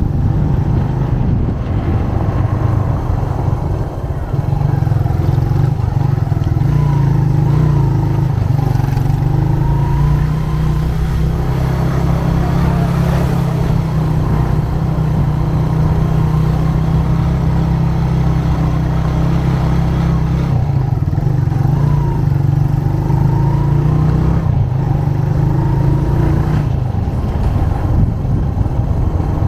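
Motorcycle engine running while riding, its pitch stepping up and down a few times with throttle and gear changes, over steady road and traffic noise.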